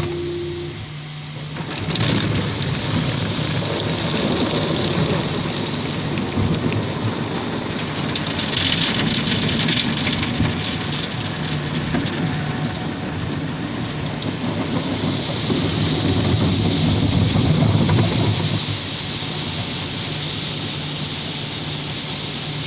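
Autec in-bay automatic car wash spraying water onto a car, a dense hiss like heavy rain over a steady low pump hum. The spray starts about two seconds in and eases to a steadier, lower level near the end.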